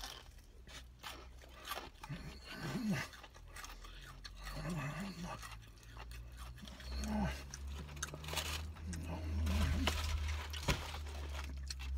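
A person chewing a crispy fried chicken tender, with short crunches from the breading and a few low closed-mouth hums between them. A low rumble comes in during the second half.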